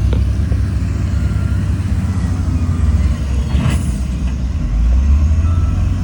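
Heavy diesel earthmoving machinery running with a deep, steady rumble, and a short hiss about three and a half seconds in.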